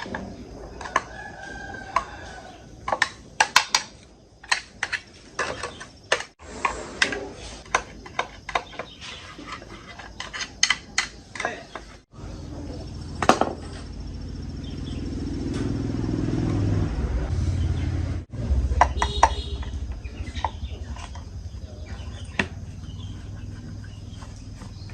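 Sharp clicks and taps of metal parts and hand tools being handled on a bench, with a rooster crowing in the background. In the second half a low hum swells for a few seconds, then cuts off.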